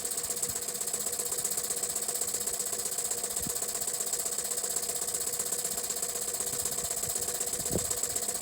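Jensen 50 toy steam engine running fast and steady while it drives a heavily loaded generator, its governor holding the speed. A rapid, even beat of exhaust puffs sounds over a steady hiss.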